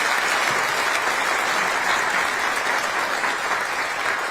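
Audience in a hall applauding steadily, many hands clapping, at the close of a welcome speech.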